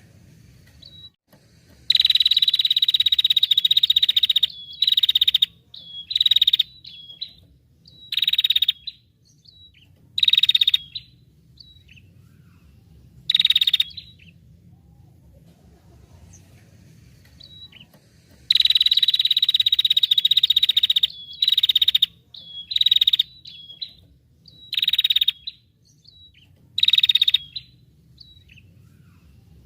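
A songbird singing in harsh, buzzy bursts: a long burst of about two seconds, then several short ones with pauses between, and the same pattern again past the middle.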